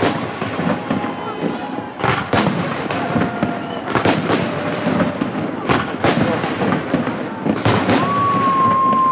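Fireworks display: aerial shells bursting in a string of loud bangs every second or two, over a crowd's chatter. A steady high whistle sounds near the end.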